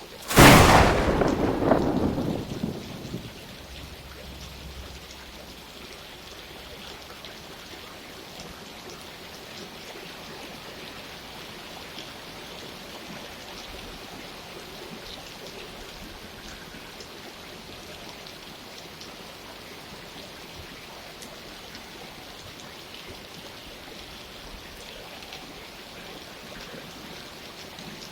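A loud thunderclap just after the start, rumbling away over about three seconds, then steady rainfall.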